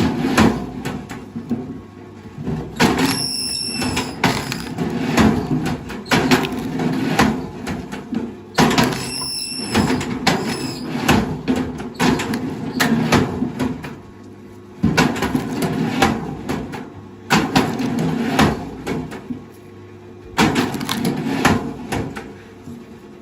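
Heavy machinery working in uneven pulses, with many sharp knocks and a brief high squeal twice.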